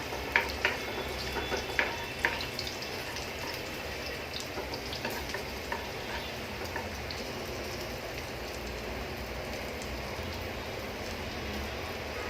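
Chopped onion and cinnamon frying in hot oil in a pan, with a steady sizzle. A few sharp clicks sound in the first couple of seconds.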